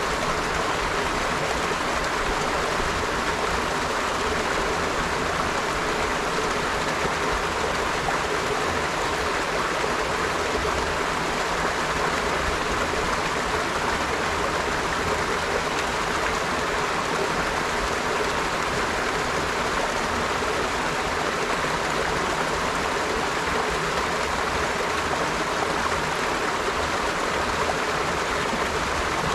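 River water flowing over stones, a steady, even rush with no changes.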